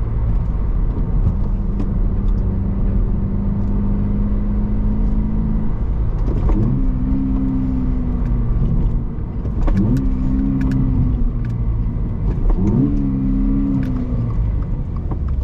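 The 2.4-litre flat-four engine of a 2024 Toyota GR86/Subaru BRZ runs at a steady pitch, then is revved up three times. Each time the pitch climbs quickly, holds for about two seconds, then drops away.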